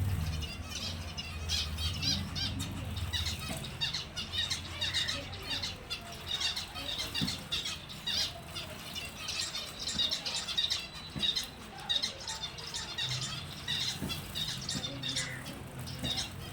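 A group of finches calling continuously, many short high chirps overlapping in quick succession.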